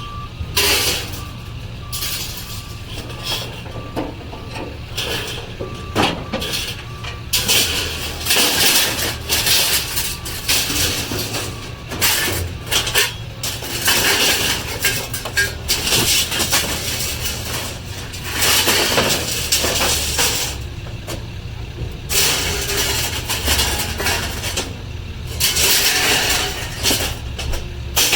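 Heavy vehicle running with a steady low hum, its reversing beeper sounding in the first couple of seconds, then repeated harsh bursts of hiss and clatter.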